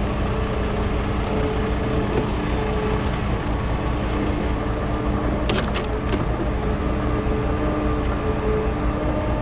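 A heavy diesel engine on recovery equipment running steadily with a constant hum, and a short cluster of clanks about five and a half seconds in.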